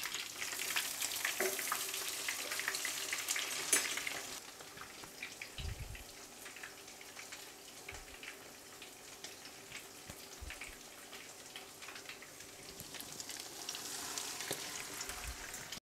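Beef chapli kababs shallow-frying in hot oil, sizzling and crackling. Louder for the first few seconds as a kabab is turned over, quieter in the middle, then swelling again near the end as a raw kabab is laid into the oil, before cutting off suddenly.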